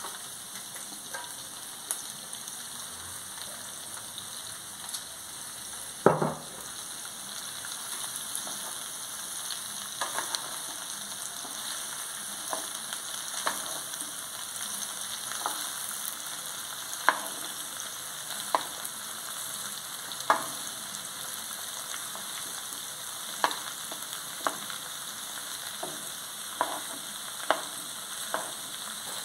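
Sliced mushrooms, bell peppers, jalapeños and carrots frying in hot oil in a wide metal pan over charcoal: a steady sizzle, with a wooden spoon stirring and knocking against the pan every second or two. One louder knock comes about six seconds in.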